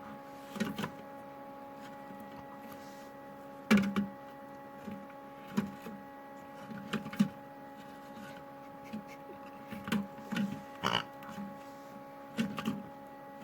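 Kinder Surprise eggs tumbling in an LG washing machine's turning drum, knocking irregularly against it, over the machine's steady hum. The sharpest knocks come about four seconds in and again near eleven seconds.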